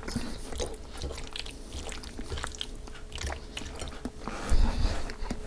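A man chewing a mouthful of pasta, with small clicks of a metal fork on a ceramic plate and a low thump about four and a half seconds in.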